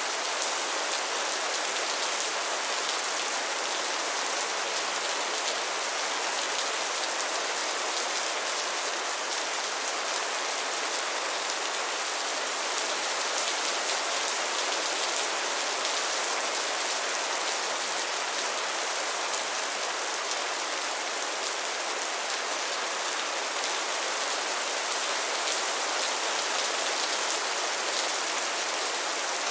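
Steady rain falling on a surface: an even hiss of many drops with fine pattering ticks, no change in strength.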